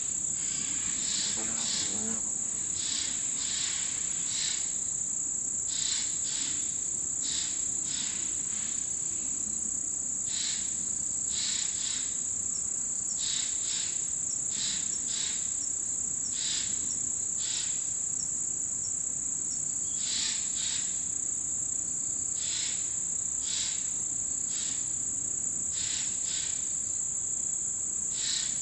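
Autumn insects singing: a steady high-pitched trill runs throughout, with short chirps from other insects coming in pairs every second or two.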